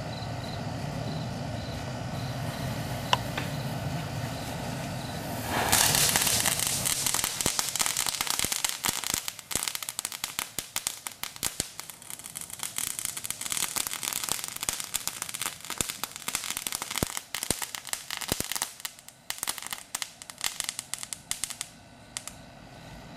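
A small ground firework goes off about six seconds in. It starts suddenly and then crackles densely with rapid sharp pops for about sixteen seconds, thinning out near the end.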